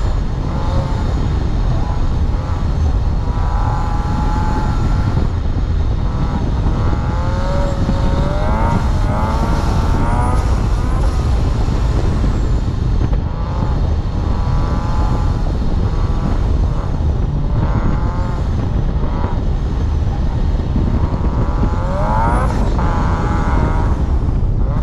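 Jackson Racing Rotrex-supercharged FA20 flat-four of a Scion FR-S driven on an autocross course. The engine note climbs in several pulls with lulls between them, under a steady heavy rumble of wind on a hood-mounted camera.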